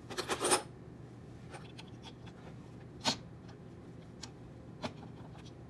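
Small hand tool and metal printer parts clicking and tapping as a screw on a 3D printer hotend is worked loose: a quick cluster of clicks at the start, one sharp click about three seconds in, and a few faint ticks after.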